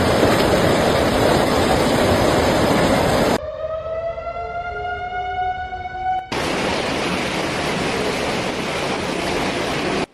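Loud, steady rushing noise, cut off a little over three seconds in by a slowly rising siren wail that lasts about three seconds, after which the rushing noise returns.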